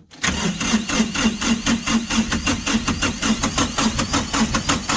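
Diesel tractor engine cranking on its starter with an even, rapid rhythmic pulse, not catching. The owner takes this for air still in the fuel system after bleeding the filter.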